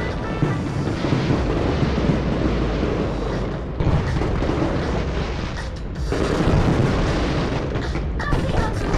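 Aerial fireworks booming one after another in a dense, continuous barrage, with music playing over loudspeakers.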